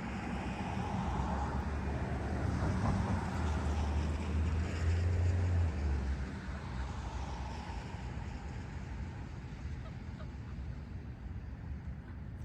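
Low engine rumble of a passing vehicle, swelling to a peak about halfway through and then fading away.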